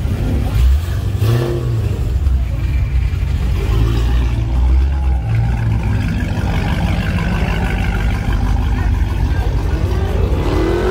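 Car engines running loudly with heavy low-end exhaust noise; about ten seconds in, an engine revs up in a rising sweep.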